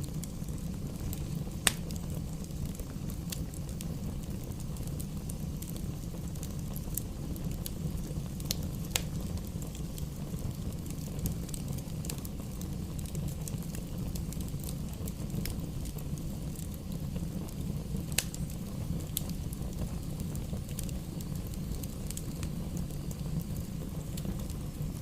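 Wood fire burning in a fireplace: a steady low rumble with the crackle of burning logs, scattered sharp pops at irregular intervals.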